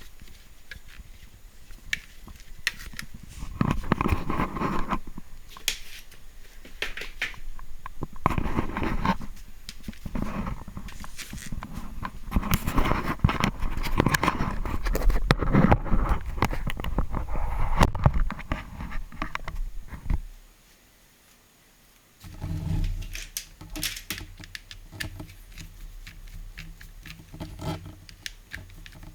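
Handling noises from a vacuum cleaner being worked on: irregular clicks, knocks and scraping of plastic parts. They break off for about two seconds past the middle, then go on more quietly over a faint low hum.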